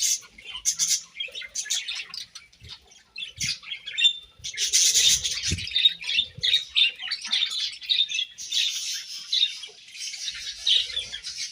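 Several budgerigars chirping and chattering together in rapid, overlapping calls. The chatter grows denser and more continuous about four and a half seconds in.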